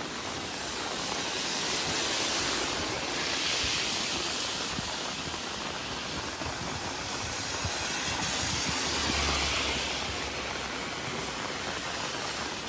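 Steady rushing noise of fast-flowing floodwater, swelling and easing a few times.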